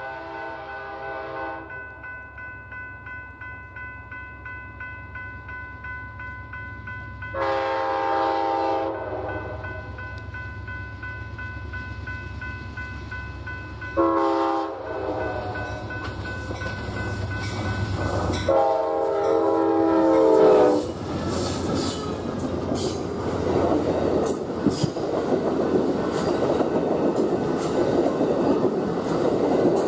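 Amtrak P42 diesel locomotive sounding its multi-note air horn for a grade crossing in four blasts, long, long, short, long, over the steady hum of its engine. After the last blast, about 21 seconds in, the train passes close by, with wheels clattering over the rail joints.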